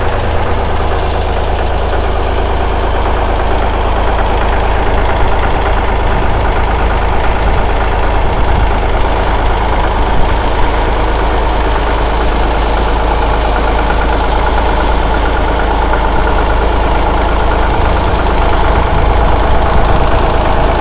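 A Massey tractor's engine idling steadily.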